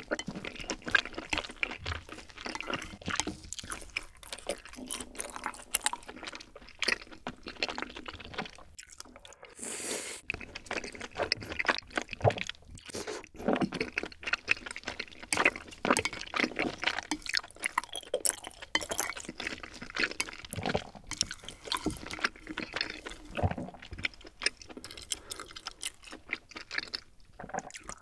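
Close-miked wet chewing of rosé tteokbokki: chewy rice cakes in a thick creamy sauce, with sticky smacking and slurping in an irregular run of small clicks and squelches.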